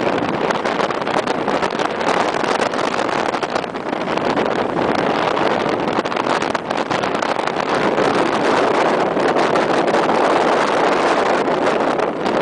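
Steady, loud rushing noise of a fast, turbulent river heard from a moving car, mixed with the car's wind and road noise.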